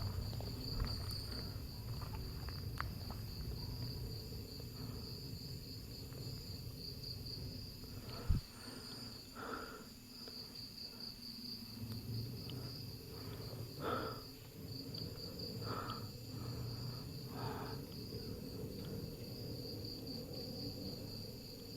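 Crickets chirping in a steady, fast pulsing trill, with a few faint short calls and a single click about eight seconds in.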